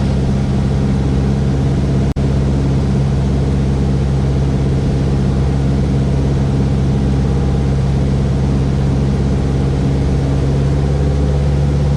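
Steady drone of a Cessna 172S's four-cylinder Lycoming engine and propeller heard inside the cockpit, holding an even pitch. The sound drops out for an instant about two seconds in.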